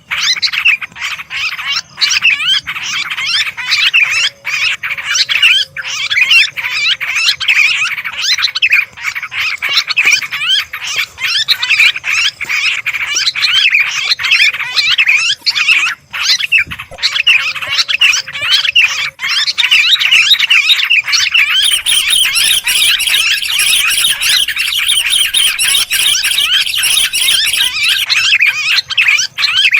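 Sooty-headed and yellow-vented bulbuls chattering noisily in a dense, unbroken chorus of chirps, played as a bird-lure call. Higher, thinner calls join about two-thirds of the way through.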